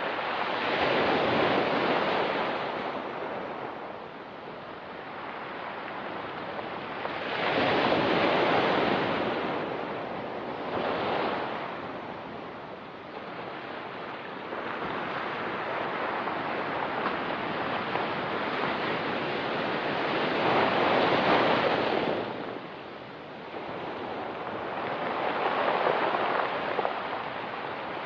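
Ocean surf on a pebble beach, waves breaking and washing in. The noise swells and ebbs every few seconds, with the biggest surges near the start, about eight seconds in, around twenty-one seconds and near the end.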